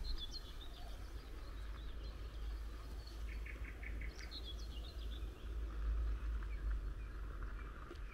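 Small songbirds chirping in short sliding phrases near the start and again about four seconds in, with a quick run of repeated notes just past three seconds, over a steady low rumble.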